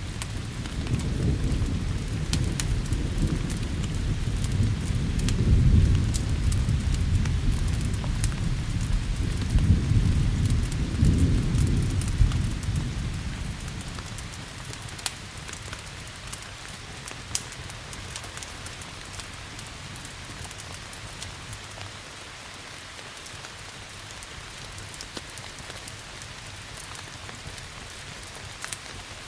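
Steady rain with a long roll of thunder rumbling through the first half, dying away about halfway through. Scattered sharp crackles sound over the rain's steady hiss.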